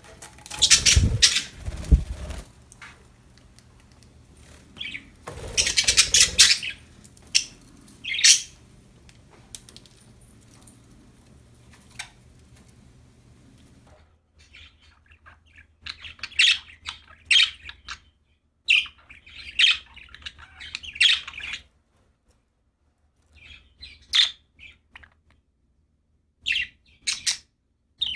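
Budgerigars chirping in short, high bursts, thickest in the second half. There are two louder bouts of rustling noise in the first few seconds.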